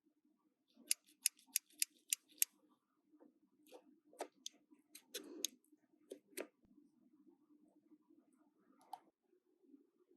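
Small hard plastic toy pieces clicking and tapping as they are handled: a quick run of about six sharp clicks early on, then scattered single clicks and a short rustle.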